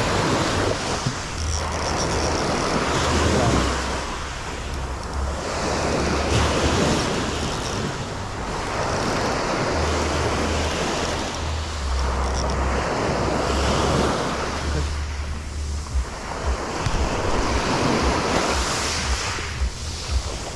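Sea waves washing in and drawing back, swelling about every four seconds, with wind rumbling on the microphone.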